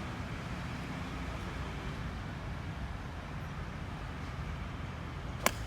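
Steady low rumble of road traffic, with one sharp click near the end.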